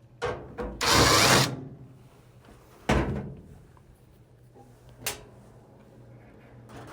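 A power drill runs in one short burst to back a screw out of the dryer's front panel. Several sharp clicks and a knock follow as the tool and parts are handled.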